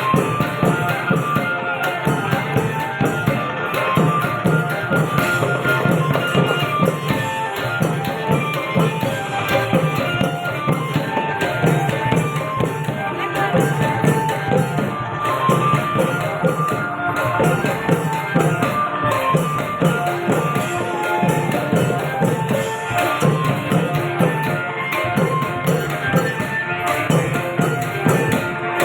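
Thai klong yao long-drum band playing a steady, driving beat of long drums and small hand cymbals, with a melody line carried over the rhythm.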